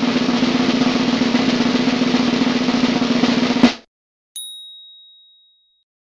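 Snare drum roll, a fast steady rattle that stops on a final hit about three and a half seconds in. Half a second later comes a single high ding that rings and fades out.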